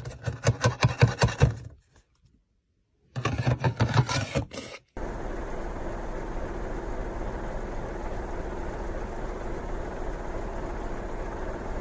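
A motor chugging in fast, even pulses in two bursts of under two seconds each, with a short gap between them. It is followed by a steady, even running noise with a low hum.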